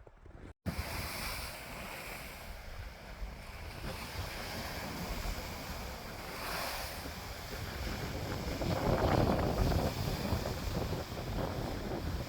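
Wind rushing and buffeting the microphone in a steady roar with heavy low rumble, gusting louder about nine seconds in.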